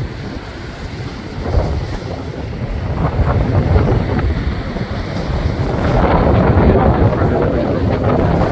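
Strong wind buffeting the microphone over rough Pacific surf breaking against a rock breakwater, a steady roar that grows louder about halfway through.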